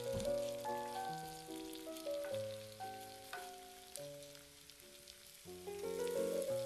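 Grated potato, carrot and onion fritter batter sizzling in oil in a frying pan as it is spooned in and pressed flat with a wooden spatula, a steady faint hiss with small crackles. Background music of held notes changing step by step plays over it and is louder than the frying.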